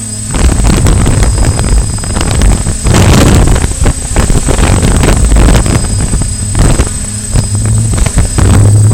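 Quadcopter motors and propellers humming steadily while gusty wind buffets the microphone in irregular loud surges. The hum grows stronger near the end.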